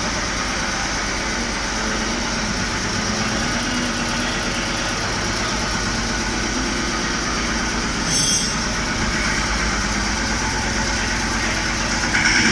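An engine or motor running steadily, with a brief sharper sound about eight seconds in.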